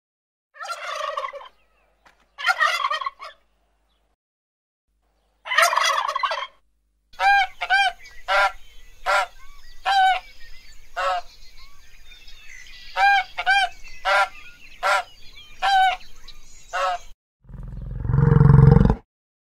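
Large birds calling: three harsh calls about a second long, then a run of a dozen or so short, repeated calls. Near the end comes a loud, low roar.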